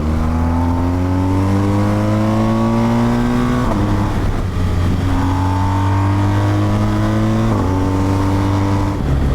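Motorcycle engine accelerating up through the gears: its pitch climbs steadily, drops at an upshift about four seconds in and again about seven and a half seconds in, then climbs again.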